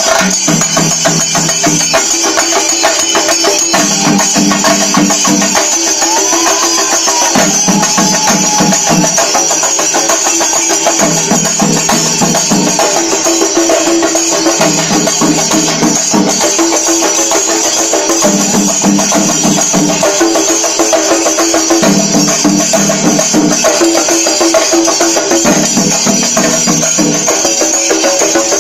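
Shinkari melam ensemble playing fast, dense rolls on chenda drums with ilathalam hand cymbals clashing continuously over them. A deeper drum part comes in and drops out in regular phrases every two seconds or so.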